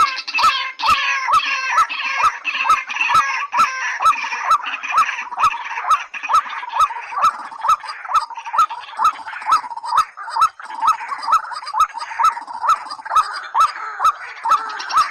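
White-breasted waterhen and watercock calling: short rising notes repeated about three times a second over a dense chatter of higher calls, with a steady train of sharp clicks running through it.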